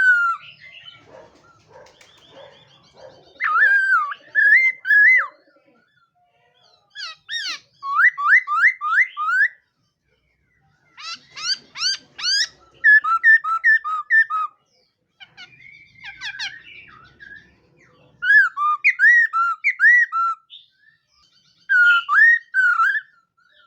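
Laughingthrush (khướu mun) singing loud whistled phrases in bursts a second or two long, separated by short pauses. About 8 s in comes a run of five quick rising notes, and later phrases are bouncing, warbled notes.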